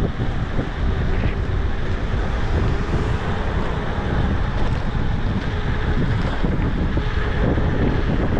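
Wind buffeting the microphone of a camera carried on a moving e-bike: a steady, loud rumble.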